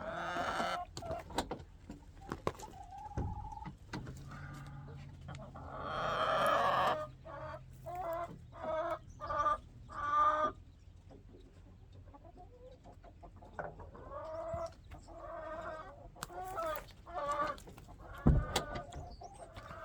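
Chickens clucking in repeated short calls, with one longer, louder call about six seconds in. A single thump near the end.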